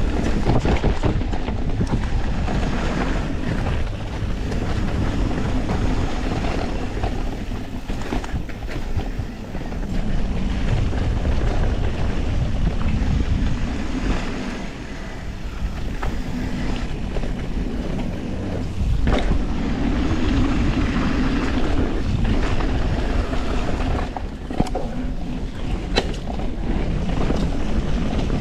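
Wind buffeting a helmet-mounted action camera as a full-suspension mountain bike runs down a rough trail: tyres on dirt and rock and the bike rattling over the terrain. There are a couple of sharp knocks, one about 19 seconds in and one about 26 seconds in.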